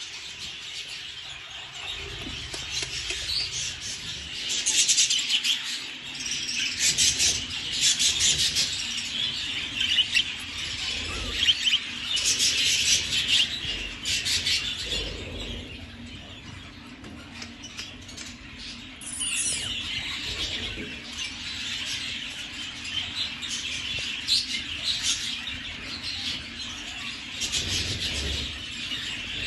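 Budgerigars chattering and warbling, a dense, busy twittering that swells and eases throughout.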